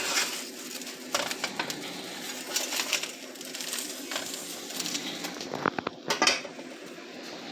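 Quesadilla sizzling in a frying pan as it is turned over, with a few clacks and scrapes of the spatula against the pan, the sharpest about six seconds in, over a steady low hum.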